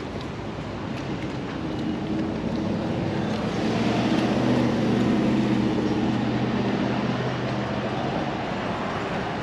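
2021 Zero S electric motorcycle's motor and drive running, a steady hum that swells to a peak midway and then fades.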